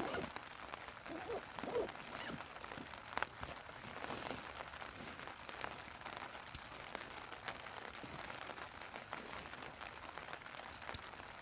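Steady rain pattering on the tent, with the rustle of a backpack being rummaged through and a couple of sharp clicks.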